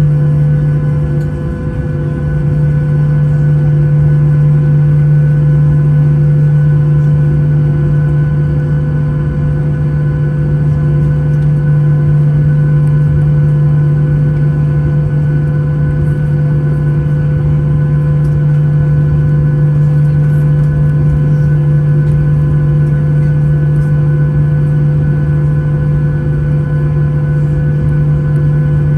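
Boeing 737-800's CFM56 jet engines running, heard inside the passenger cabin as a steady loud drone with a deep hum and low rumble.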